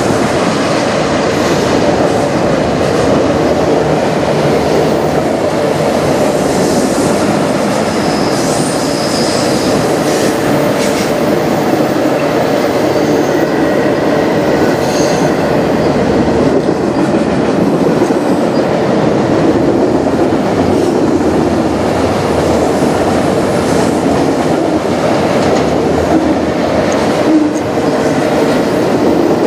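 Autorack freight cars rolling past, steel wheels on rail making a steady rolling rumble. A few brief, faint high wheel squeals come through in the first half.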